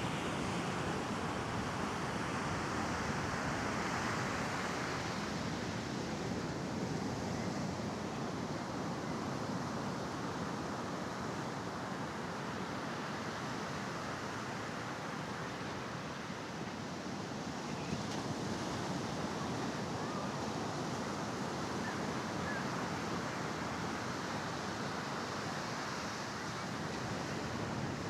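Sea waves breaking and washing ashore in a steady rush, swelling a little a few seconds in and again near the end, with some wind on the microphone.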